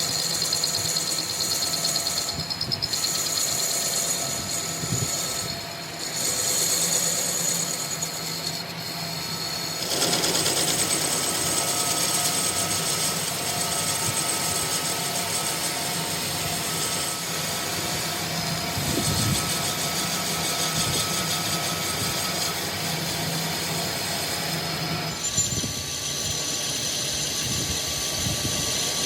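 Steady mechanical running noise with a few steady tones through it. It changes character about ten seconds in and again near the end.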